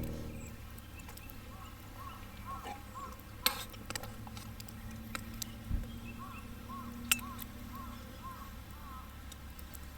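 Wood fire crackling in a small fire pit, with scattered sharp pops. Two runs of short, repeated chirping calls sound over it.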